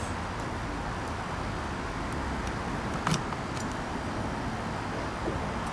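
A Ducati 848 that fails to start: one sharp click about three seconds in as the start is tried, with no cranking or engine running, over a steady background of traffic-like noise.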